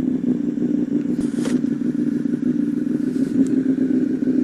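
Honda CBR1000RR Fireblade's inline-four engine running at a steady pitch, with a brief hiss about a second in.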